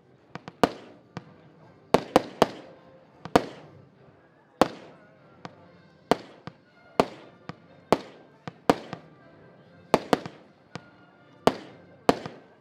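Diamond Golden Bridge, a 75-shot consumer firework battery, firing: sharp bangs at irregular intervals, roughly two a second, some coming in quick pairs or triplets. Each bang trails off in a short echoing rumble.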